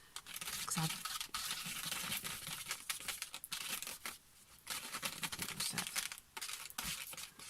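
A fingertip rubbing gesso into the back of an old paper postcard: a scratchy rubbing of skin on card that keeps going, stopping briefly about four seconds in.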